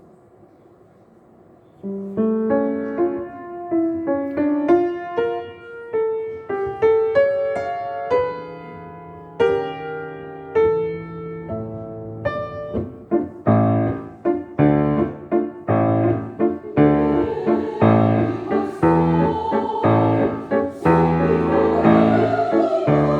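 Piano playing a waltz introduction. It begins about two seconds in with a single-note melody, and from about halfway it fills out into chords over regular bass notes.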